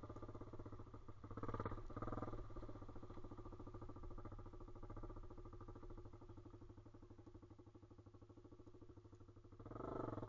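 Pit bike's single-cylinder engine running at low revs, picking up briefly about a second and a half in and again near the end.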